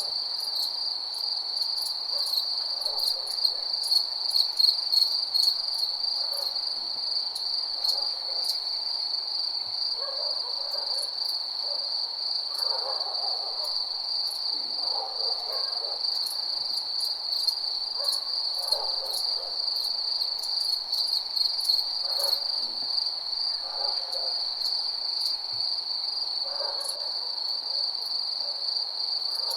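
Crickets chirping in a steady, high-pitched night chorus. Fainter, lower-pitched calls come every couple of seconds, with scattered sharp ticks.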